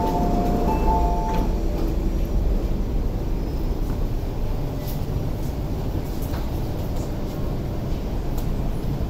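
Steady low rumble of an MTR East Rail Line SP1900 electric train standing at the platform with its doors open. A two-note electronic tone sounds for about the first second and a half, and a few light clicks come later.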